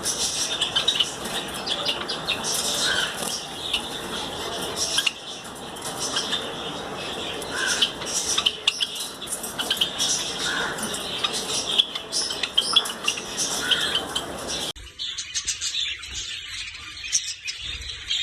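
A group of caged finches chirping constantly, with many short overlapping high calls and tweets. The background changes abruptly near the end while the chirping goes on.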